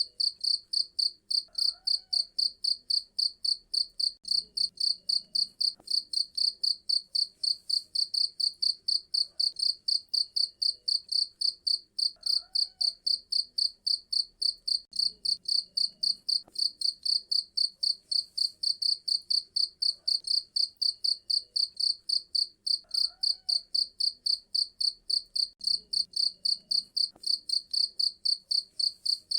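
Cricket chirping loudly and steadily, a high-pitched pulsed chirp repeated evenly about three times a second.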